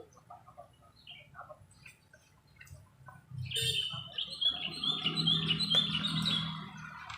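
A bird chirping: a quick run of high notes starting about halfway through, with a low steady hum beneath it in the second half.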